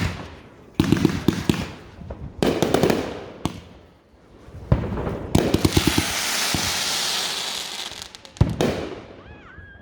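Fireworks going off: a run of sharp bangs, each trailing into quick crackles, then a long hiss about five seconds in that lasts a few seconds, and another bang near the end.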